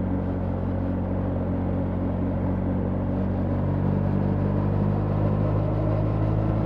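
BMW R 1300 GS boxer-twin engine running at a steady cruise while riding, its note holding even with only slight pitch drift.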